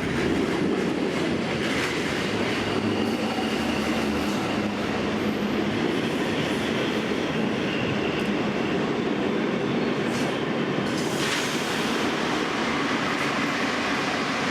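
A train running on the rails with a steady rumble, and a faint high whine through the first half.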